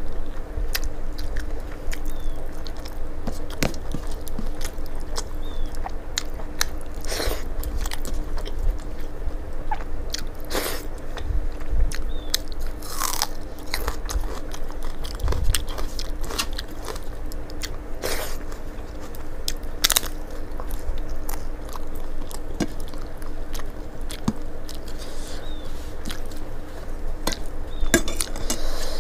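Close-up eating sounds: a person chewing and biting mouthfuls of rice and vegetables eaten by hand, with scattered sharp crunches and mouth clicks. A faint steady hum runs underneath.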